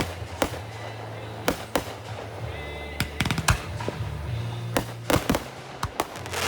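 Fireworks going off: an irregular series of sharp bangs and pops, some in quick clusters, over music playing underneath.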